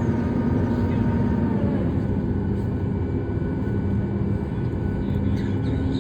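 Steady cabin noise of a Boeing 737-8 MAX in flight, engines and airflow, with a higher whine of the flap drive running as the flaps extend, which sinks slightly and stops about a second and a half in.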